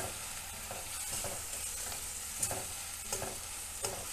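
Onion and tomato masala paste sizzling in a kadai while a spatula stirs it. A few short scrapes of the spatula against the pan come about two and a half, three and four seconds in.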